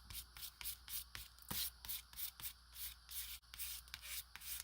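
Quick repeated rubbing strokes of an applicator across cardstock, about three a second, as silver paint is worked onto the card.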